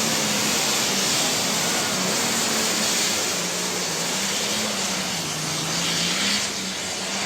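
Diesel super stock pulling tractor's engine running at full throttle under load down the track. Its pitch dips slightly about five seconds in, then rises again.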